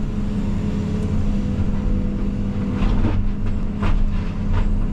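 Diesel engine of a Case CX220E excavator running steadily, with a few short knocks about three to four and a half seconds in.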